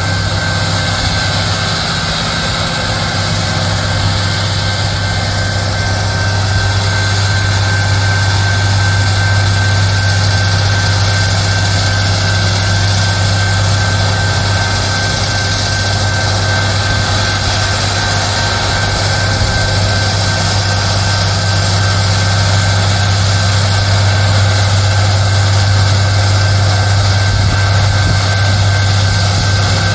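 Diesel engines of a Loram SBC-20 shoulder ballast cleaner running steadily: an even low drone with a thin constant whine above it.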